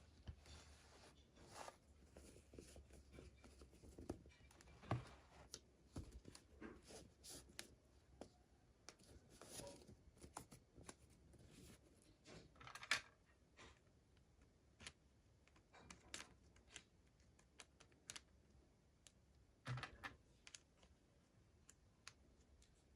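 Faint handling of toy packaging: scattered small clicks, taps and crinkling rustles of plastic and cardboard being opened by hand, with a few sharper clicks.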